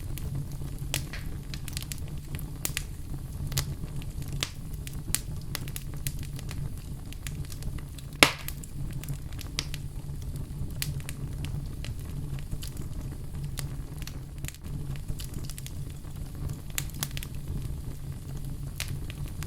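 Wood fire burning in a fireplace: a steady low rumble with frequent small crackles and snaps, and one louder pop about eight seconds in.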